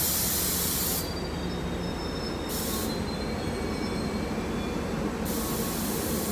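NJ Transit passenger train rolling slowly along the platform, with a low rumble and faint high-pitched wheel or brake squeals. Three bursts of hissing come through, one near the start, one about two and a half seconds in and one near the end.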